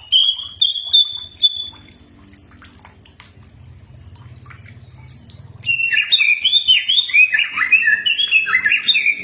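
Cucak ijo (green leafbird) singing: a few short rising whistled notes, a lull of about four seconds with only a low hum, then a fast run of varied, sliding whistles from about six seconds in.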